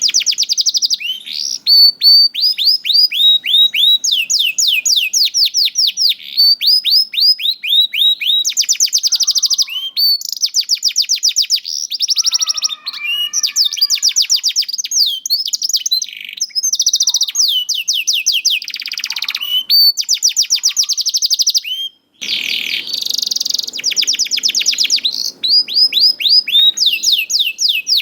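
Canary singing, a long high song made of rapid trills of repeated downward-sweeping notes that switch to a new note pattern every second or two. The song breaks off for a moment about 22 seconds in, then carries on.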